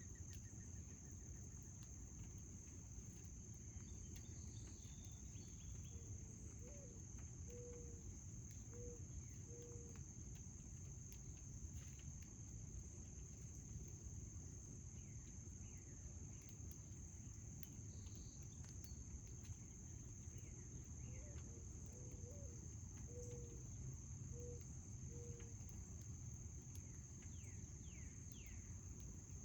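A steady, high-pitched chorus of crickets. Twice, a bird gives a short series of low, evenly spaced notes, with a few faint higher chirps between.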